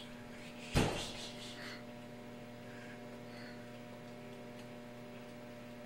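Microwave oven running with a steady electrical hum, before its end-of-cycle ding. A single sharp thump sounds about a second in.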